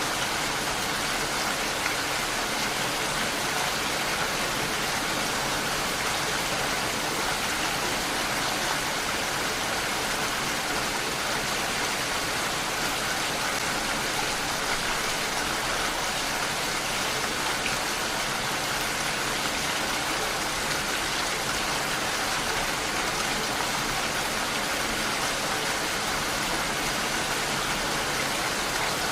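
Steady rain falling, an even hiss of drops with no pauses or separate strikes.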